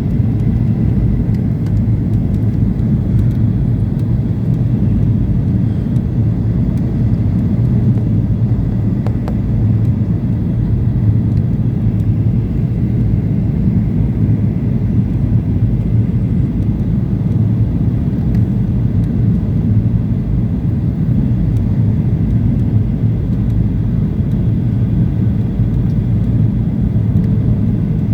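Steady in-flight cabin noise of a Boeing 737-800, its CFM56 engines and the airflow making a low, even drone that does not change.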